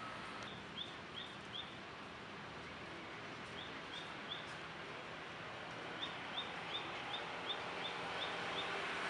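A bird calling in short, high chirps: three quick chirps, then three more, then a run of about eight about a third of a second apart near the end, over steady outdoor background noise.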